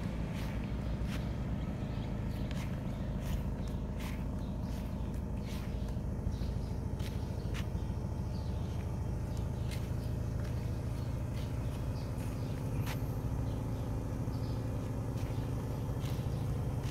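Honda Civic EF sedan's four-cylinder engine idling steadily at the exhaust, with scattered light clicks over it.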